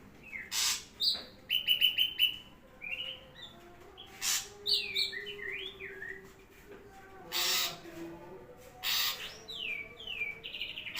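Ashy drongo singing: short whistled notes that slide downward, a loud quick run of repeated notes about two seconds in, and four loud, harsh, hissing notes spread through the song.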